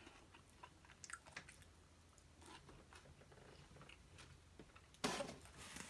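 A person chewing food softly with faint, scattered mouth clicks. About five seconds in there is a louder short burst of noise.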